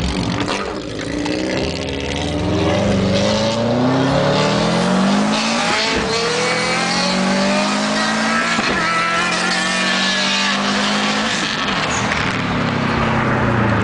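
2004 Subaru Impreza WRX STI's turbocharged flat-four accelerating hard through the gears. The engine pitch climbs steadily, then drops back at each upshift, a few times.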